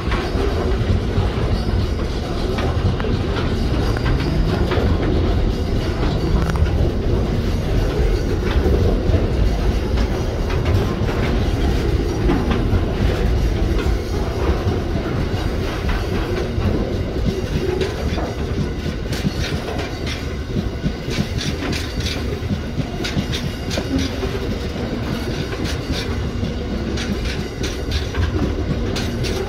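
Container freight train's wagons rolling past: a steady rumble of steel wheels on rail, with sharp clicks from the wheels over the rail joints, more of them in the second half.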